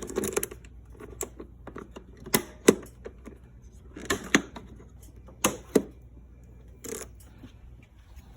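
Sharp clicks and knocks, several in quick pairs, from a Can-Am Spyder's storage compartment as it is unlatched and opened and the groceries inside are handled.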